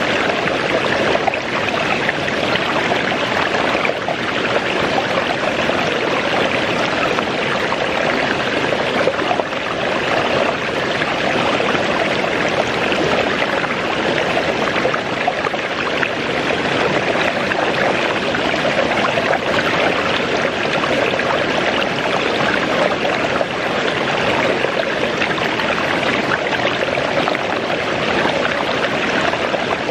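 Waterfall running, a continuous, even rush of falling water that stays steady throughout.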